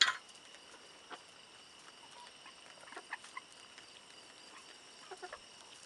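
Chickens giving a few short, soft clucks while pecking at corn on the cob, with a sharp click right at the start.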